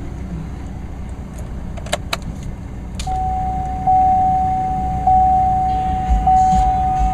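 A car's dashboard warning chime, one steady tone renewed about every 1.2 seconds, starts about three seconds in over a low engine rumble. A few sharp clicks come about two seconds in.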